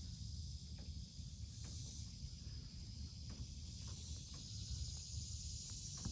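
Steady high-pitched insect chorus, like crickets, over a low rumble, with a few faint clicks.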